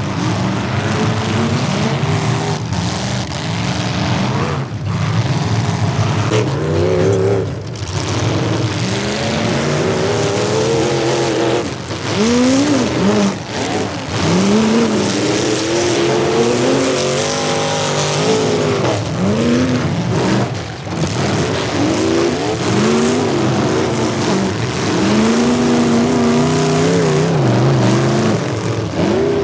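Demolition derby cars' engines revving up and down over and over, several at once, over a loud continuous drone of engine noise.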